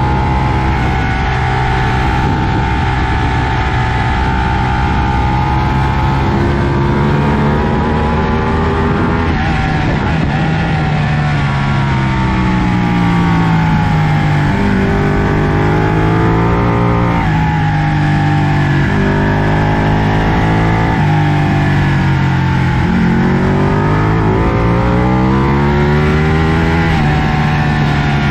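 2012 Ducati 1199 Panigale's Superquadro V-twin at racing speed on track. The engine holds a steady note for the first several seconds. It then revs up in a run of climbs, each cut off by a sharp drop as the rider shifts up. It falls away under braking about two-thirds of the way in, then climbs again through more upshifts, all over a steady rush of wind.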